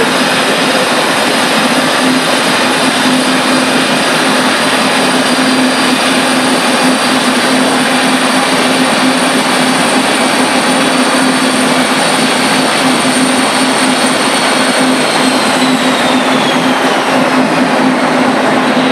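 Turbocharged Honda VTR V-twin running on a Dynojet dyno, loud and steady, with high-pitched whines over it. In the last few seconds the whines glide down as the run ends and things spin down.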